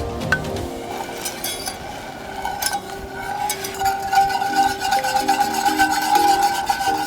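Quick scraping and clicking of a kitchen utensil working in a cooking vessel, like stirring, over background music.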